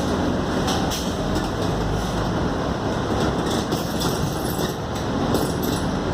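Scania K280UD double-decker bus heard from on board: steady engine drone and road noise, with light rattles and clicks from the bus body.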